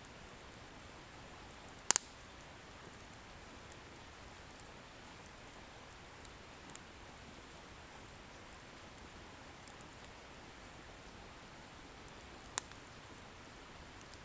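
Wood bonfire burning with a soft steady hiss and faint crackles. Firewood pops sharply twice, loudly about two seconds in and again near the end.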